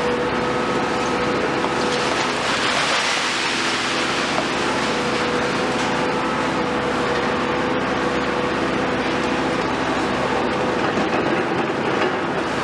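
Heavy demolition excavator working: a steady engine and hydraulic drone under a rough wash of demolition noise, with a brief surge of hiss about three seconds in.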